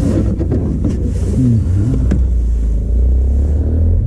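A motor vehicle engine running with a steady low rumble, with a few sharp clicks over it.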